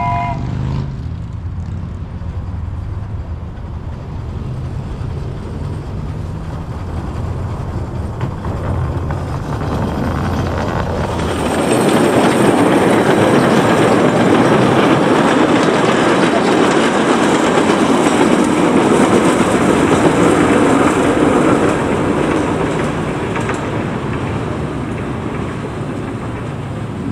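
Small-gauge tourist train passing close by, its wheels rolling and clattering over the rails. The noise grows loud about twelve seconds in as the carriages go past, then fades as the train moves away.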